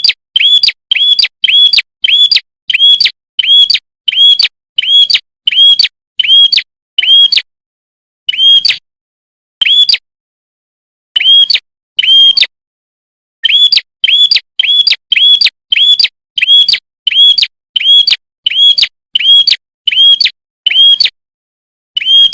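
Red-headed prenjak, a small prinia-type songbird, giving a fast series of short, sharp chirps, about two a second, each note rising and then falling. The runs break off for short pauses a few times, then pick up again.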